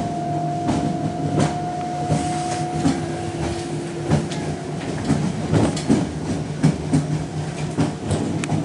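Interior of a Copenhagen S-train running through the switches of a rail yard: steady running rumble with irregular clacks as the wheels cross rail joints and points. A steady high whine sounds over it for the first three or four seconds, then fades out.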